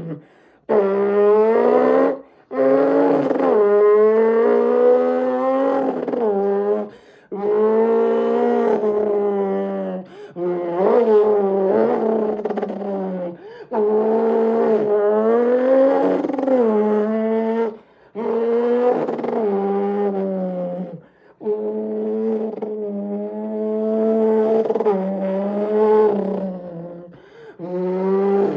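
A man imitating a Honda S2000's engine with his voice: a continuous buzzing rev whose pitch climbs and falls, in about eight long runs broken by short pauses.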